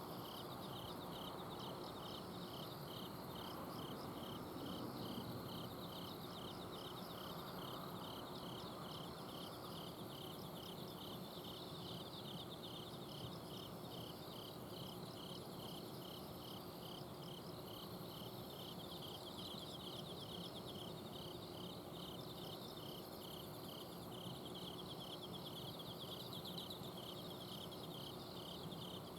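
Night chorus of autumn crickets and other insects, several species at once, one pulsing in a steady chirp about twice a second over continuous higher trills. Beneath them runs a steady low hum from an outdoor air-conditioner unit.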